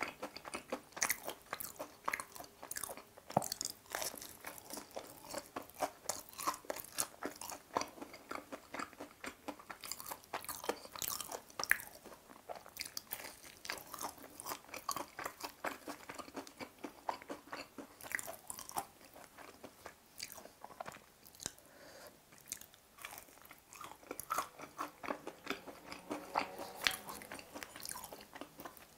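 Close-miked chewing and crunching of a crispy fried chicken cutlet (Lotteria G-Pie), the breading crackling sharply with each bite and chew, without a break.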